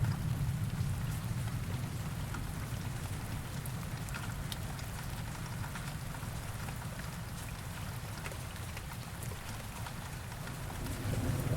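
Heavy rain falling steadily, an even hiss with scattered drop ticks. A low thunder rumble fades out at the start, and another begins to swell near the end.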